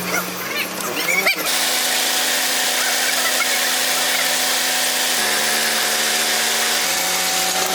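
A motor spins up with a quick rising whine about a second in, then runs steadily with a strong hiss. Its hum steps down in pitch twice near the end.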